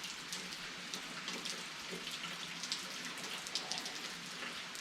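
Steady rain falling, with many separate drops ticking sharply on hard surfaces.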